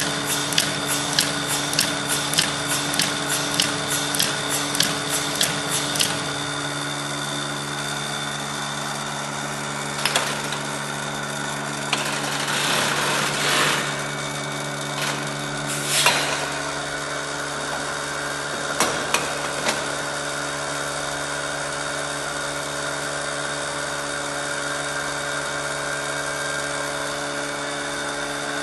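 Automatic capsule filling machine running with a steady mechanical hum that carries several fixed tones. Even clicking at about two or three a second stops about six seconds in. Later there are a few short knocks and a brief rushing noise.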